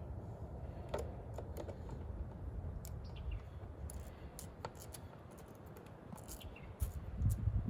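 Scattered light clicks and taps of a socket wrench working a small 8mm bolt and parts being handled, over a low rumble that grows louder near the end.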